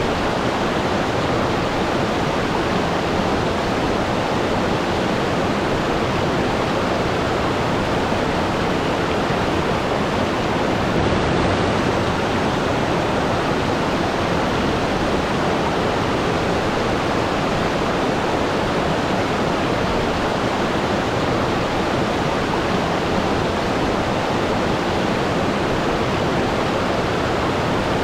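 Waterfall: water falling and rushing steadily in an even, unbroken roar.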